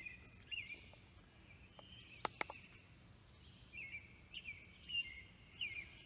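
Faint bird chirps outdoors: short wavering calls that repeat every second or so. About two seconds in comes a quick double click, the OBD2 code reader's OK button being pressed to read codes.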